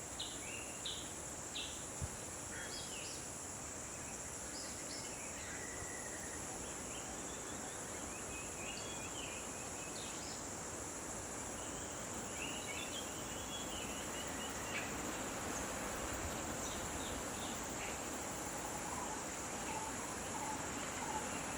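Steady high-pitched drone of insects, with short bird chirps scattered through it, over a constant even background hiss.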